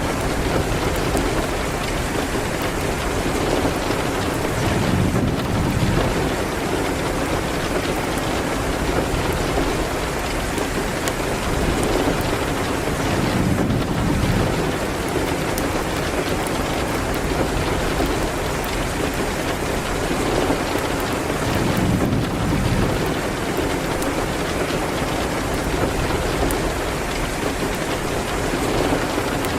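Steady rain falling, an even wash of noise with a low rumbling swell about every eight seconds.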